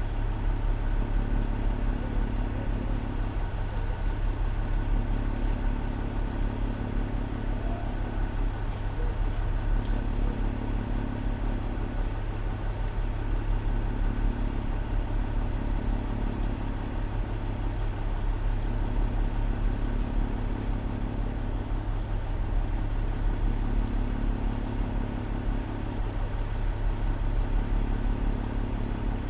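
Fire engine's engine idling, a steady low rumble.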